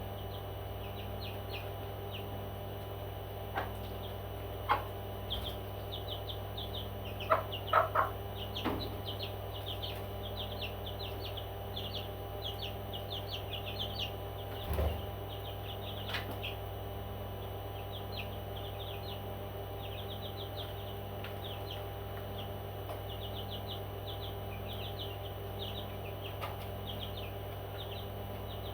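Parrots chirping: many short, high chirps in quick runs throughout, with a few louder calls about seven to eight seconds in, over a steady low hum.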